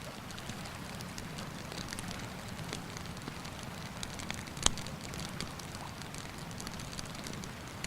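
Wood campfire crackling with scattered small pops and one loud snap a little past halfway, over a steady rush of river water.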